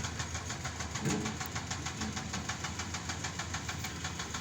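Heavy diesel engine of construction machinery running steadily, with an even, rapid clatter of about eight beats a second.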